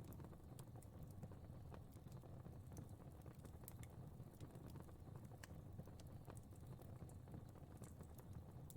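Faint fire crackling: a low steady rumble of flames with small irregular crackles and pops scattered throughout.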